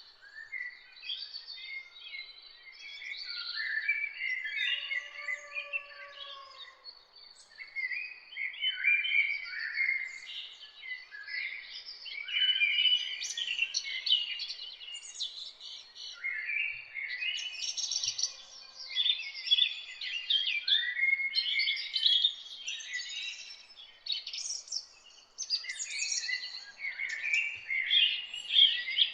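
Several songbirds singing and chirping at once, with overlapping rapid trills and chirps and a few lower whistled notes.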